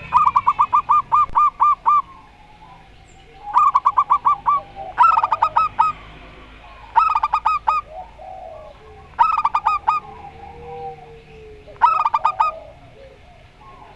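Zebra doves (perkutut) calling in turn: six bursts of rapid staccato cooing notes, each burst about a second long, with short pauses between.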